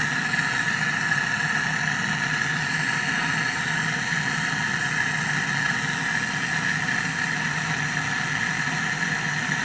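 An electric motor-driven machine running with a steady, unchanging hum and whine.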